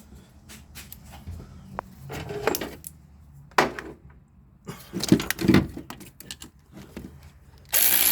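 Metal clinks and knocks of hand tools and a starter bolt being worked into a cross-threaded hole, then near the end a power tool starts and runs steadily.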